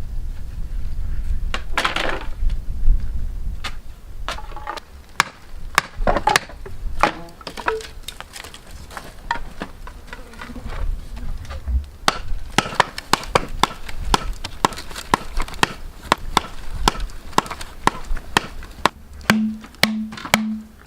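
Repeated sharp strokes of a tool on bamboo, scattered at first and then a steady two or three strokes a second from about twelve seconds in. A low rumble lies under the first few seconds, and a pulsing low hum begins near the end.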